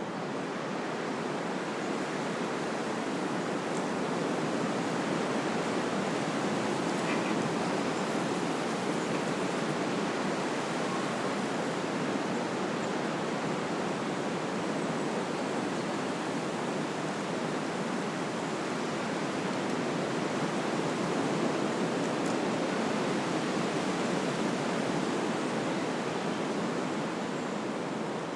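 Wind blowing through trees: a steady rushing of leaves and branches that swells a little in the first few seconds.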